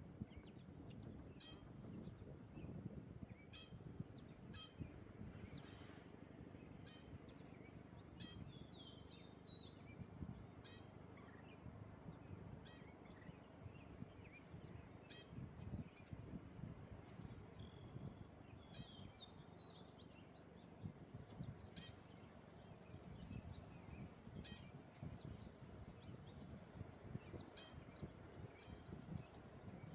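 Small birds calling in the open: short high chirps every second or two and a few brief warbling phrases, over a low rumble of breeze on the microphone.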